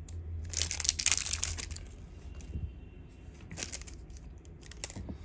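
Rustling, crinkling handling noise for about a second and a half, then a few sharp clicks.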